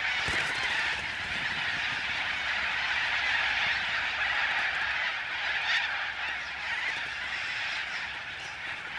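A large flock of little corellas screeching all at once, a dense, unbroken din of calls.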